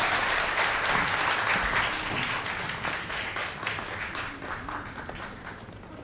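Audience applauding, the clapping thinning and dying away gradually.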